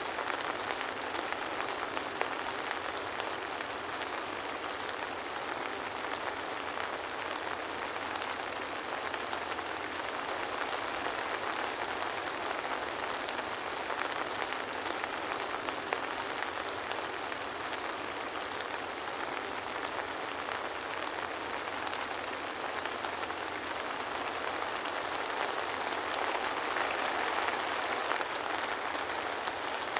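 Steady soft rain falling, an even hiss with scattered light drop ticks, swelling slightly near the end.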